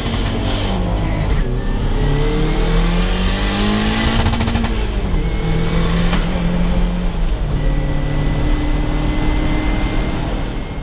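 Toyota Hilux pickup's engine accelerating hard on a quarter-mile drag run, heard from inside the cab. The pitch climbs and drops back at each upshift, about 1.5 and 5 seconds in.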